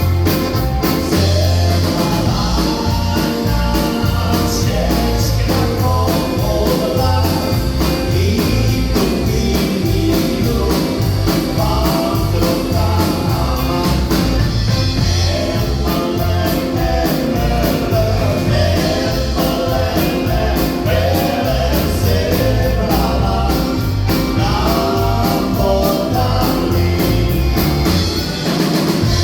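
Live polka band playing a polka, with a singer over the band.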